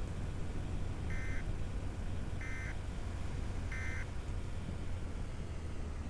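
Three short electronic beeps, evenly spaced about a second and a half apart, over a steady low rumble.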